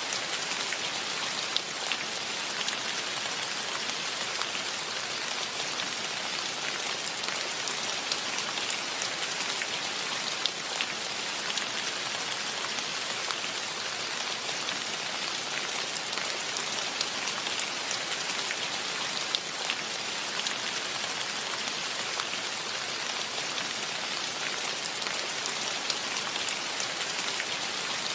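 Steady rain falling, an even hiss with single drops ticking sharply now and then.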